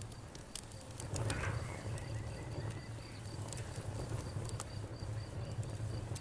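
Campfire crackling, with scattered sharp pops over a steady low rumble, while insects chirp in a rapid, even high-pitched pulse.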